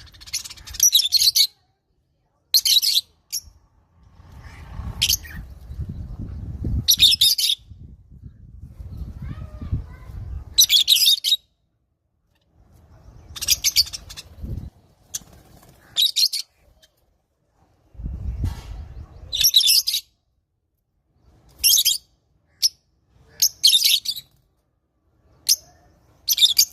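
Lovebirds chattering in short, shrill bursts of chirps, repeated every second or few seconds. A low rumble runs beneath some of the calls.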